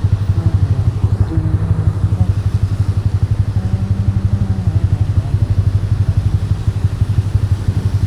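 Single-cylinder engine of a Honda CG 160 motorcycle running steadily through a Fortuna Trioval aftermarket exhaust, with a loud, evenly pulsing low exhaust note.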